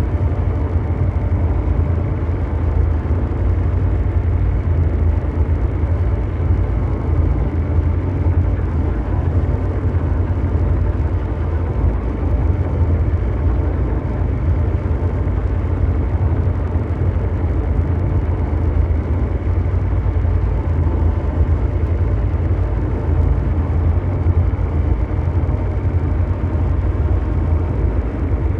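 Continuous mechanical drone noise: a steady, deep rumbling hum with faint steady tones over it, unchanging throughout.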